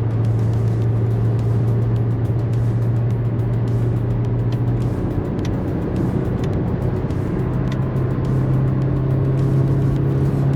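Peugeot 306's 1.6 eight-valve petrol four-cylinder engine heard from inside the cabin while driving, a steady drone. About five seconds in the drone breaks off briefly, as at a gear change, then returns a little higher and slowly rises as the car pulls.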